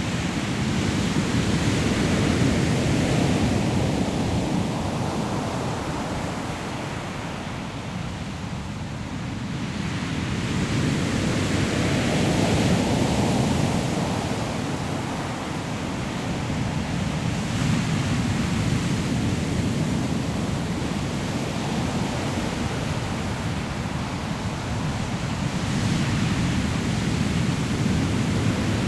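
Sea waves breaking on a pebble shore in a steady rolling rush, swelling and easing every several seconds, with wind on the microphone.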